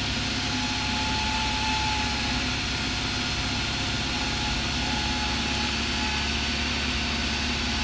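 Cessna 172's piston engine and propeller running steadily in cruise, a constant drone heard from inside the cabin.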